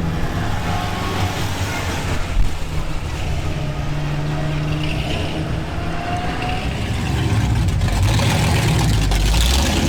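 Classic cars and hot rods driving past, their engines running and revving, getting louder for a couple of seconds near the end as one passes close.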